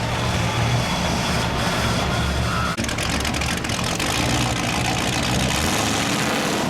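A monster truck's big engine running loud and steady.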